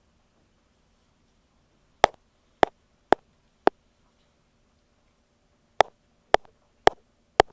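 Ear pick tapping directly on an earphone microphone: two runs of four sharp taps, about two a second, with a pause of about two seconds between the runs.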